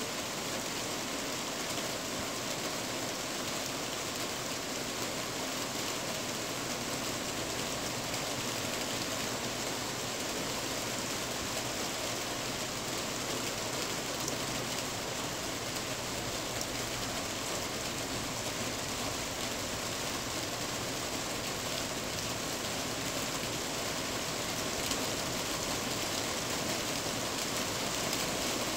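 Steady rain on a tin roof: an even hiss with scattered sharper taps of single drops.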